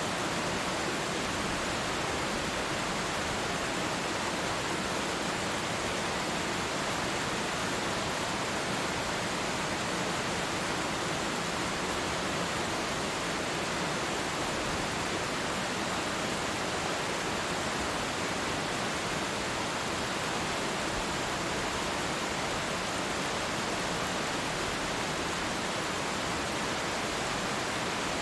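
Waterfall rushing in a steady, even roar of falling water that does not change.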